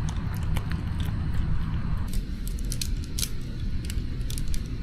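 Scattered light clicks and clinks of camping gear being handled and packed, over a steady low rumble.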